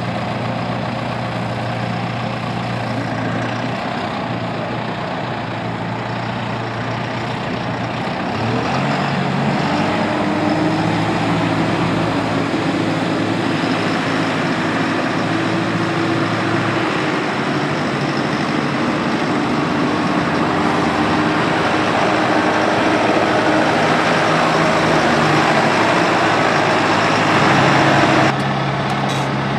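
John Deere 6105E tractor's four-cylinder turbocharged diesel engine running steadily. About eight seconds in it speeds up and runs louder and higher for the rest. Near the end the higher-pitched part of the sound drops away suddenly.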